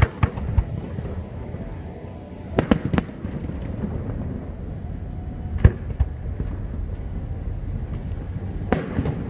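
Aerial fireworks shells bursting with sharp bangs at irregular intervals. A quick cluster of reports comes around three seconds in, a loud single bang a little before six seconds, and another bang near the end.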